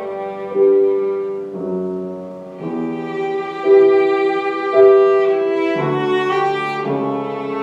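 Cello playing a slow, singing melody of long held notes with piano accompaniment, the notes changing about once a second.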